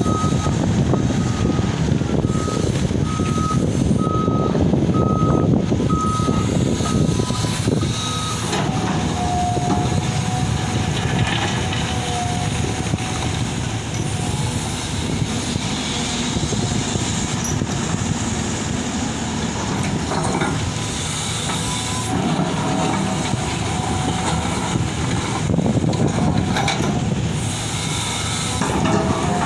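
Heavy diesel excavators running under load at a dig site. A reversing or travel alarm beeps about once a second for the first eight seconds, then stops, while the engine and hydraulic noise carries on.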